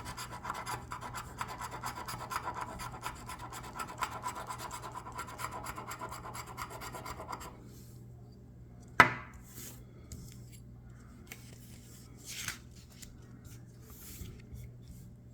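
Scratch-off lottery ticket being scratched hard and fast for about seven seconds, then a sharp tap about nine seconds in and a few brief, lighter scrapes.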